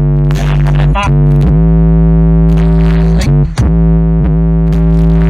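Music played loud through a car audio system: sustained synthesizer chords over a heavy, steady bass, with a brief downward pitch swoop at each chord change.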